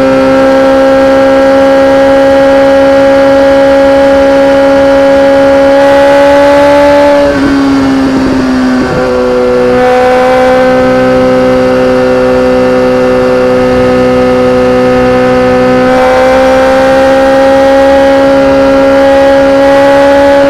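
BMW K1300R's inline four-cylinder engine running through an Akrapovic exhaust at a steady, slowly rising engine speed. About seven seconds in the note breaks and dips briefly, settles a little lower, and climbs gradually again near the end.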